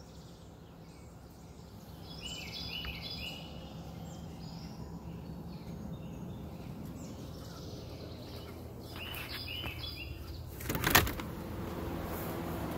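Songbirds chirping in quick clusters of short high notes over a steady low background hum. About eleven seconds in comes one brief loud knock or clatter, followed by a steady low hum.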